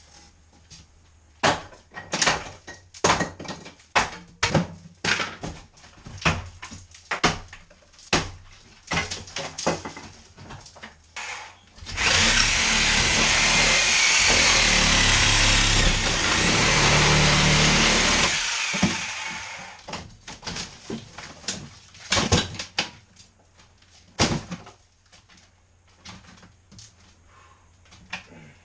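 Building work: a run of sharp, irregular knocks, then a power tool running loud and steady for about seven seconds before winding down, followed by a few more scattered knocks.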